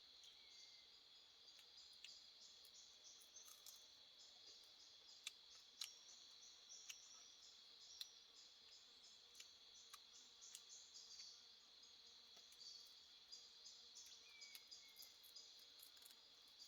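Faint, steady insect chorus: a continuous high buzz like crickets, with scattered small clicks and two brief falling chirps, one near the start and one near the end.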